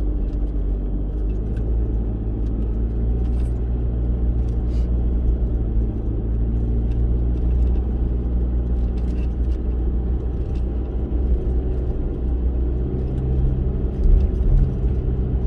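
A 4WD vehicle driving: a steady low engine and road rumble, with a few light knocks or rattles here and there.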